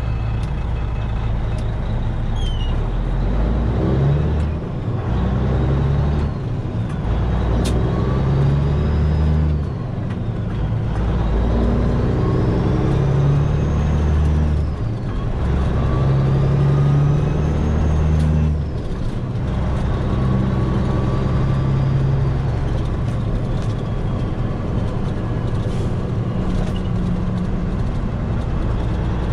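Semi truck's diesel engine pulling under load, with its note breaking off briefly several times as the driver shifts up through the gears.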